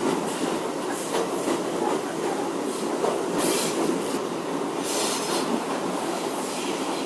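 R62A subway car running through the tunnel, heard from inside the car: a steady rumble of wheels on rails, with two brief high hissing sounds around the middle.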